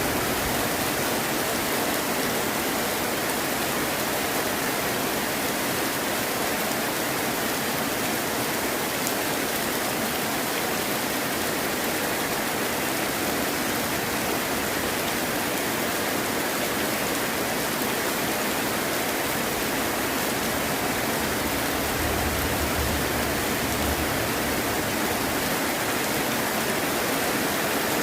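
Heavy rain falling steadily, an even unbroken hiss of dense drops.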